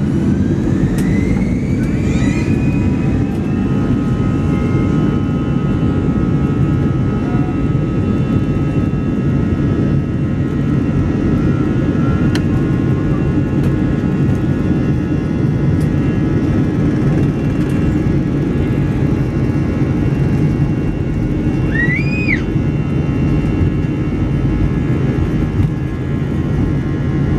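Jet airliner's engines running loud and steady with a dense low rumble and a thin whine over it; the whine rises in pitch over the first few seconds. A short high chirp sounds about two-thirds of the way through.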